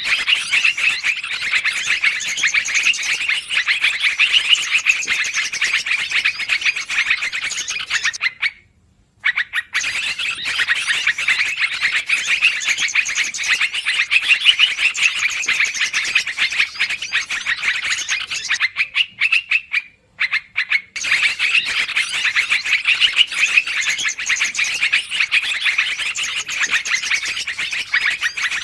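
Yellow-vented bulbuls (trucukan) calling in a dense, rapid, excited chatter, broken by two short pauses, about nine and about twenty seconds in.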